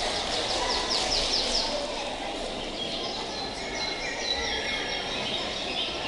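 Birds singing, a forest-ambience recording: runs of quick descending chirps and trills, several birds at once, over a steady hiss of background noise.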